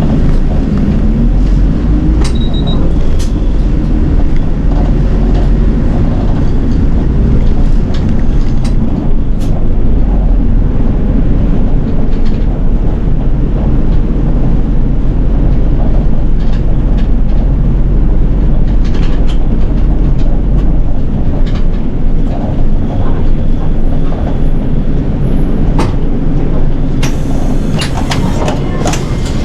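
City bus engine and road noise heard from inside the cabin: a steady low rumble with occasional clicks and rattles, the deepest part of the rumble easing about two-thirds of the way through.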